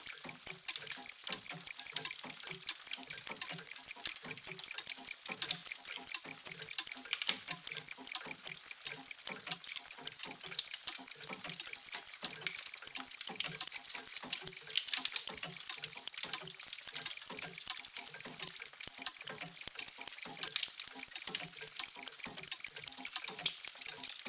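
Many mechanical clocks ticking at once, their overlapping ticks making a steady, dense patter of sharp clicks several times a second.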